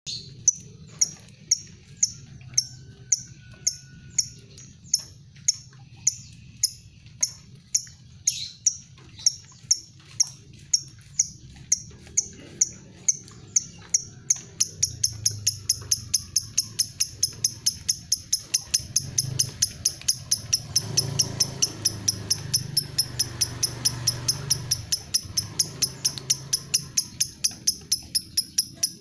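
Lovebird 'ngetik' call: a regular series of short, sharp, high ticking chirps, about two a second at first, then quickening to about four a second around halfway. A faint low hum runs underneath.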